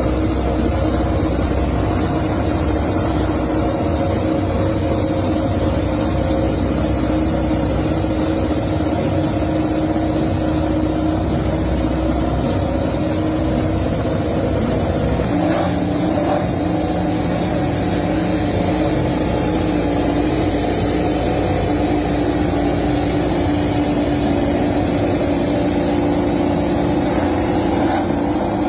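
MotoGP racing motorcycle engines running at steady, held revs. The engine note shifts to a slightly different pitch about halfway through.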